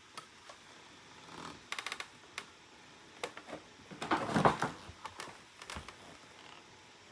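Handling noises: scattered clicks and knocks, a quick rattle of clicks about two seconds in, and a louder rustling clatter a little past halfway, as a vacuum cleaner is handled and readied before being switched on.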